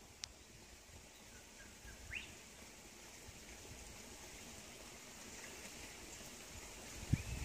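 Faint outdoor ambience with a short rising bird chirp about two seconds in and a few fainter chirps later. A brief low thump near the end.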